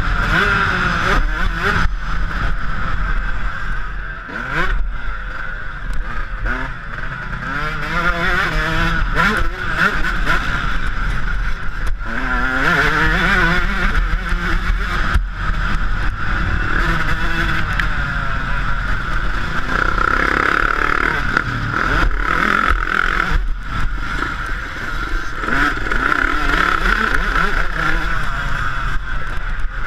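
Yamaha YZ125 two-stroke motocross engine revving up and down again and again as the bike is ridden, under a steady rushing noise, with frequent sharp knocks from bumps.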